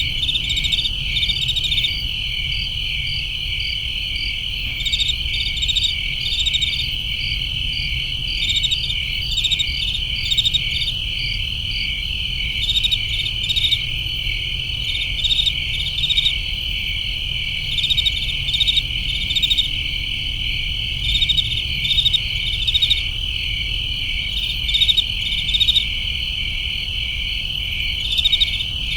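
Chorus of crickets: an unbroken high trill, with short pulsed chirps from other insects repeating over it every second or two, above a steady low rumble.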